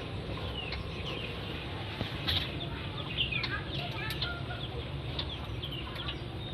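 Birds calling over one another: many short chirps and quick falling notes, with a steady low rumble underneath.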